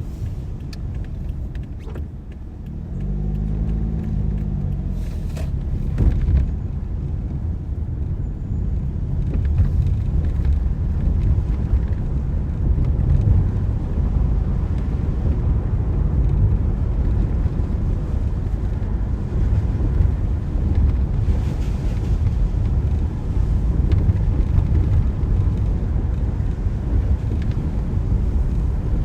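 A car driving on wet roads, with a steady low rumble of road and engine noise. About three to five seconds in, an engine note rises and falls briefly.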